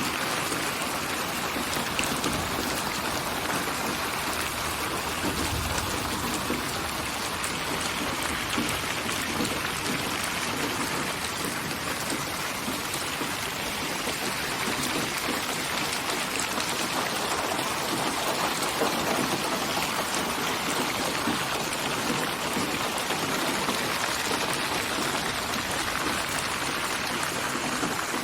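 Steady rain: an even hiss of falling drops that does not let up.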